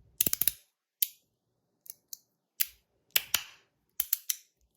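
Titanium free-floating slider fidget being slid back and forth, its plate clicking sharply against the ends. A quick cluster of clicks comes just after the start, then single clicks follow at irregular gaps.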